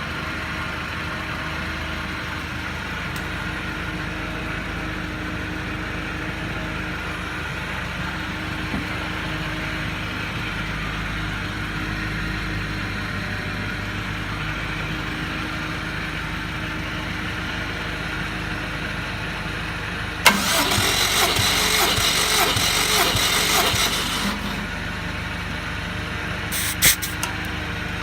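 Subaru Impreza WRX flat-four engine cranked over on its starter for about four seconds, as for a compression test, with a rough, evenly pulsing sound. A steady mechanical hum runs underneath, and a couple of short sharp sounds follow near the end.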